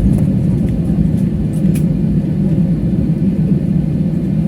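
Airliner cabin noise: a steady, loud low rumble from the plane rolling on the ground just after landing.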